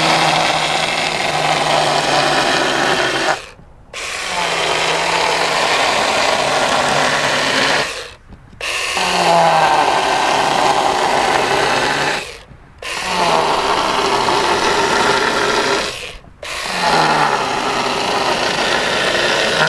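Battery electric chainsaw cutting into a wooden slab to carve letters. It runs in five long bursts with brief full stops between them, and its pitch dips at the start of most bursts as the chain bites into the wood.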